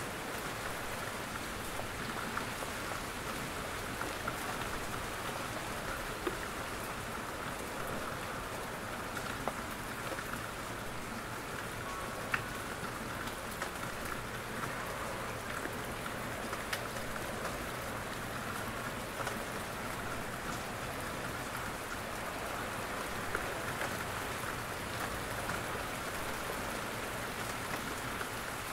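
Steady rain in a forest, with many small drops pattering and dripping from the trees.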